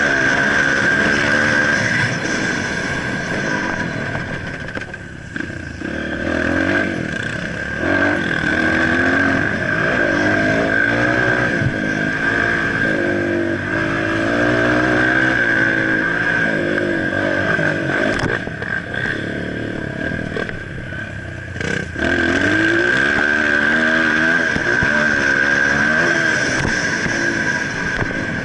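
Motocross dirt bike engines revving up and down over and over, with a steady high whine underneath. The engine sound eases off twice, a few seconds in and again past the middle.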